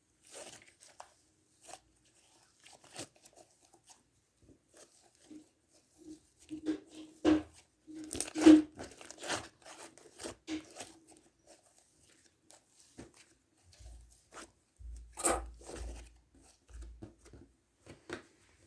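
Mint sherbet slime being squeezed and pulled by hand, giving irregular crackling, tearing pops with quiet gaps between them. The loudest bursts come near the middle and again about three-quarters of the way through.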